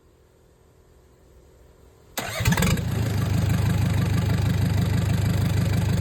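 Kia J2 four-cylinder diesel engine starting: it catches suddenly about two seconds in and settles into a steady idle with an even pulsing beat.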